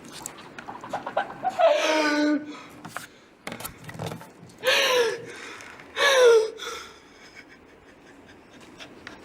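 A person's voice crying out loudly three times without words, each cry falling in pitch, with breathy gasps and scattered clicks between.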